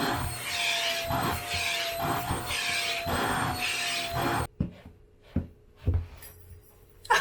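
A brush stroking through a cat's fur, a scratchy stroke about twice a second, stopping about halfway through. A few soft knocks follow.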